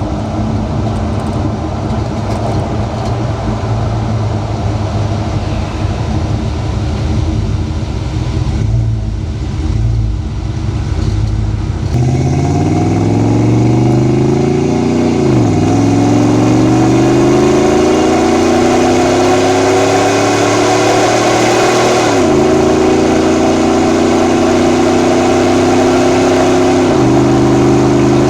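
Ford 7.3 L Godzilla V8 with custom exhaust in a 1979 Bronco, cruising at first with a low rumble and road noise. About halfway through it accelerates hard: the engine note climbs and drops back at each upshift of the 6R80 automatic, three shifts in all.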